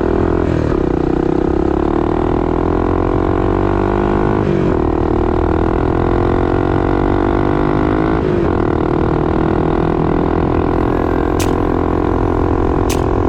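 Honda Big Red ATV's single-cylinder engine running under load, its pitch climbing steadily and then dropping sharply three times as it shifts up through the gears.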